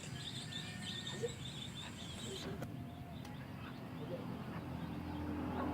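Chickens clucking softly and sporadically, with dense high-pitched chirping in the background that cuts off suddenly about two and a half seconds in.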